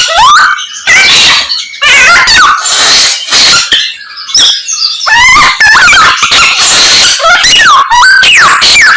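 Mongolian lark (samyong) singing a loud, fast medley of mimicked calls: quick whistled notes sliding up and down, mixed with harsh scratchy phrases and brief pauses.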